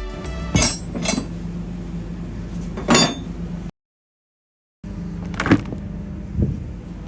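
A few sharp metallic clinks and knocks over a steady low machinery hum, broken by about a second of dead silence midway.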